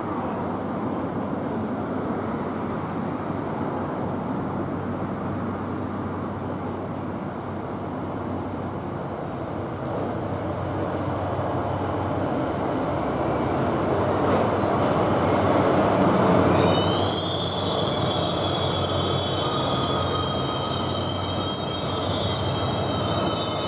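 The DF200 diesel-electric locomotive of the Seven Stars in Kyushu cruise train approaches and draws into the platform, its running noise growing louder. From about two-thirds in, the brakes squeal in several high, steady tones as the train slows.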